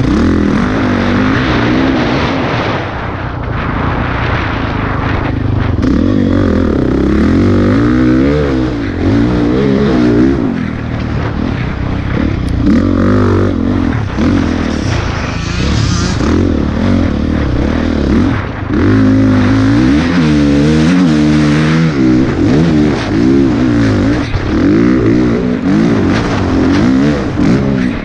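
Dirt bike engine revving hard and easing off again and again as the rider works the throttle around a motocross track, its pitch rising and falling in repeated sweeps, heard from a helmet-mounted camera.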